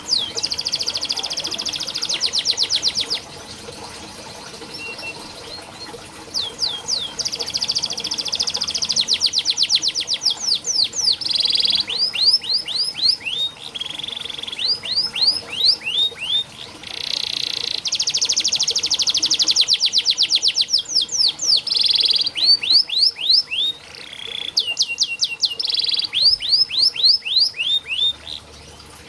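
Domestic canary singing: long, very fast rolling trills alternating with runs of slower sweeping notes, in phrases broken by short pauses.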